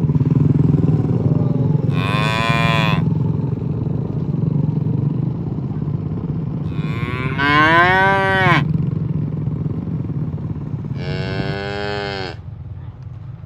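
Cattle mooing: three separate moos, the middle one the longest and loudest, with its pitch rising and then falling. Under them runs a steady low rumble that fades near the end.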